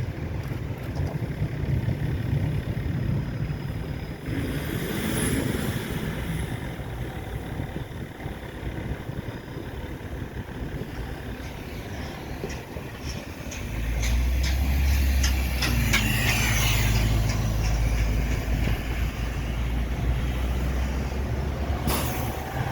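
Street traffic, then a heavy vehicle's engine starts running close by about two-thirds of the way in: a steady low rumble that holds to the end. A few clicks sound around then, and a short hiss comes near the end.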